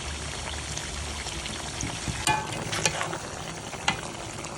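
Food sizzling as it fries in a pan, stirred with a utensil that clinks sharply against the pan a few times in the second half.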